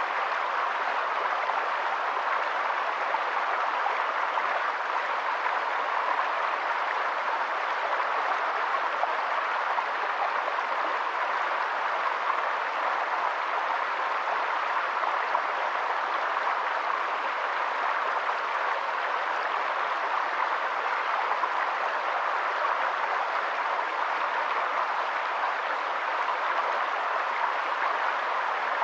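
Steady, even rush of water, unbroken and without change.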